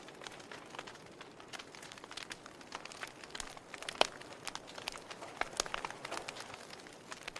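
Wood fire crackling in a fireplace: irregular sharp pops and snaps over a faint hiss, with one louder pop about four seconds in.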